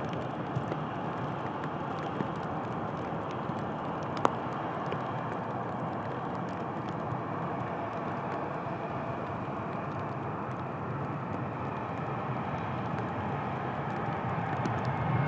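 Steady distant jet airliner noise in light rain, with scattered faint ticks of raindrops hitting the camera's rain cover and one sharper tick about four seconds in. The aircraft noise begins to swell near the end.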